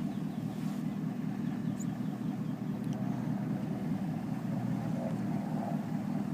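Propeller airplane engines running steadily, a low, even drone that neither rises nor falls.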